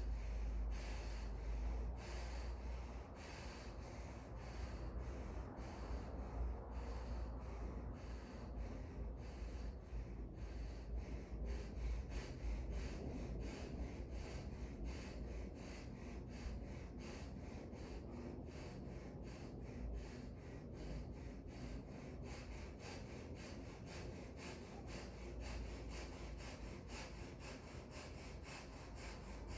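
Fast, rhythmic breathing through the nose in a diaphragm-training exercise, about three quick breaths a second, speeding up a little after the middle.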